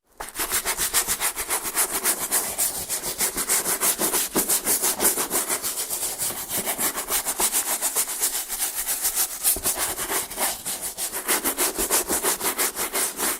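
A brush scrubbing a shoe in fast back-and-forth strokes, about six scratchy strokes a second, kept up without a break.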